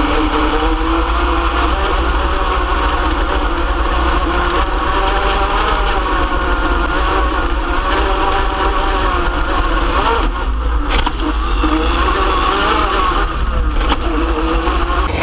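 Super stock race truck's engine running hard on track, its pitch wavering with a heavy low rumble underneath. The engine eases off briefly about ten seconds in, and again shortly before the end.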